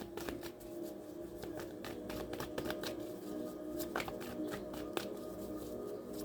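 Tarot cards being shuffled and handled, a run of quick, irregular card clicks and flicks over soft, steady background music.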